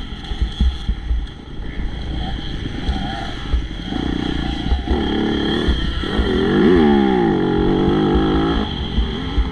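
Motocross bike engine running hard, with its pitch swinging up and down about two-thirds of the way in, over uneven low thumps.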